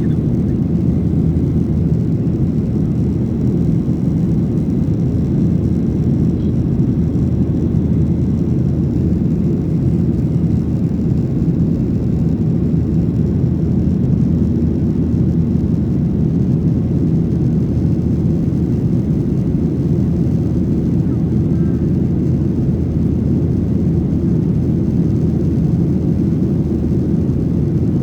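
Steady low rumble inside the cabin of a Boeing 737-800, from its CFM56-7B engines and the rush of air past the fuselage, heard from a rear window seat. It holds even throughout, with no changes in power.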